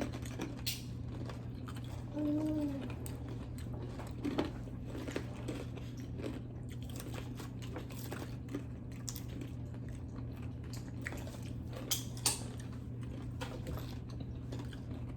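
Several people biting and chewing crunchy Takis-and-cream-cheese stuffed jalapeños: irregular crisp crunching clicks. A short hummed vocal sound comes about two seconds in.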